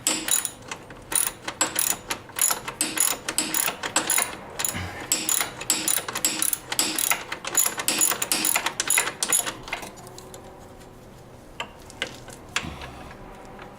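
Hand ratchet socket wrench clicking in quick strokes as a bolt is turned, for about ten seconds, then stopping apart from a few scattered clicks.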